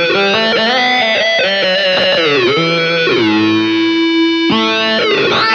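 Electric guitar played through an EarthQuaker Devices Data Corrupter PLL synth pedal, giving a buzzy synth tone rich in harmonics. Its pitch steps from note to note and slides up and down between them, with the root set one octave down.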